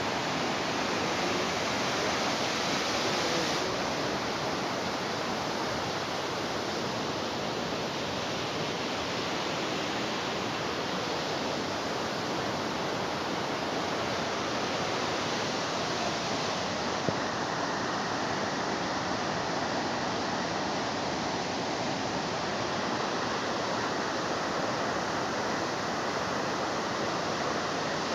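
Himalayan mountain waterfall rushing, a steady, unbroken noise of falling water.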